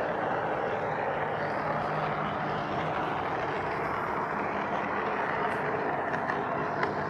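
Model railway train running steadily along the track: a continuous rolling rumble with a faint low hum.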